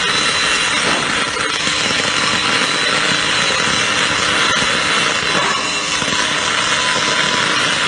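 MIG welding arc burning steadily, a continuous crackling hiss with no breaks.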